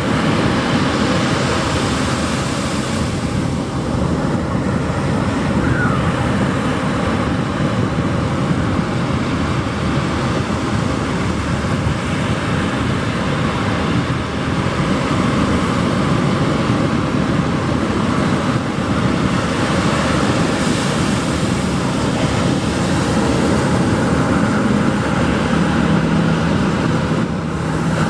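Ocean surf breaking and washing up a beach: a steady rushing noise that swells near the start and again about two-thirds of the way through. A faint low hum joins it near the end.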